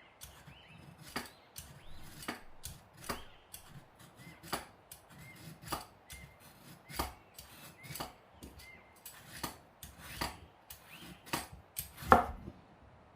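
Knife chopping on a wooden cutting board in slow, unhurried strokes, about one to two a second, with the loudest stroke near the end.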